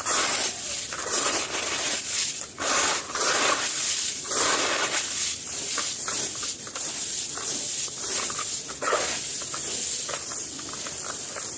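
Dry, gritty material being crumbled and crushed, in a run of repeated grinding, crunching strokes.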